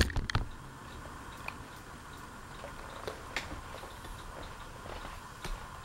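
A sharp click, then a Fanimation ceiling fan coasting down after being switched off from high, with a faint steady hum and scattered light ticks.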